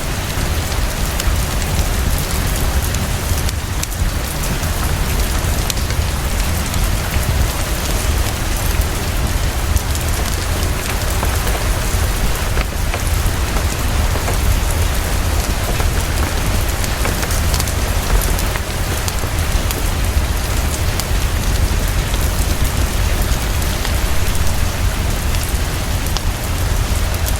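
Heavy, steady rainfall with a deep, constant low rumble beneath it, mixed with scattered small crackles from a wood fire in a fireplace.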